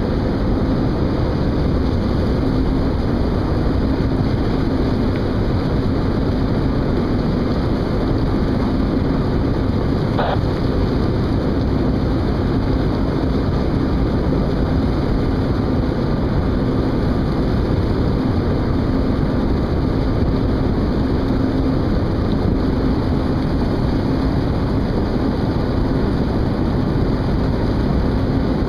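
Boat engines running, a steady drone with a constant low hum.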